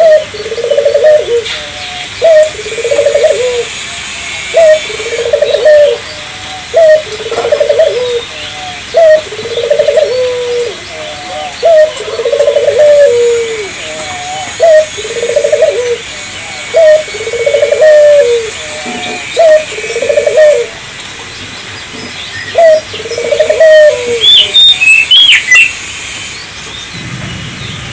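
Puter dove (a collared dove) calling nonstop: a long series of repeated coos, roughly one phrase every second and a half, that pauses about three-quarters of the way through. A smaller bird chirps a few times near the end.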